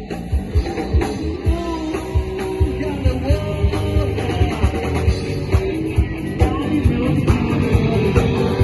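Rock music: a singing voice over guitar and a steady drum beat.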